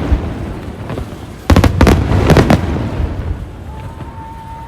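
Aerial fireworks bursting: a sudden rapid cluster of bangs and crackles about a second and a half in, echoing and fading away, with a thin steady whistle near the end.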